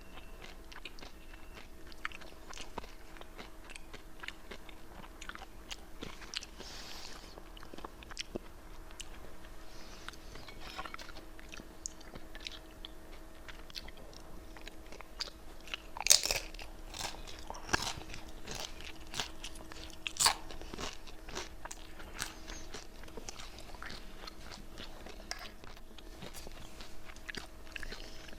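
Close-up crunching and chewing of crisp fried wonton wrapper chips: a run of sharp crackly bites and chews, with the loudest crunches about halfway through and again a few seconds later. A faint steady hum sits underneath.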